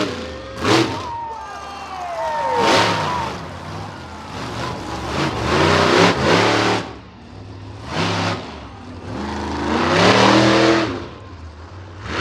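Monster truck engine revving hard in about five throttle bursts, each rising and falling in pitch over a steady low rumble; the longest and loudest burst comes near the end.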